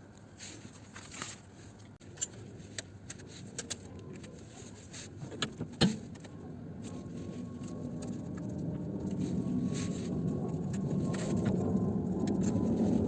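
Metal hand tools clinking on a car's subframe bolts, with one loud knock about six seconds in. After that a low rumble swells slowly and steadily until the end.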